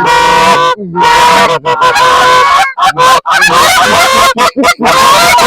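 Loud goose honking and clucking: many rapid honks, overlapping, broken by several short pauses.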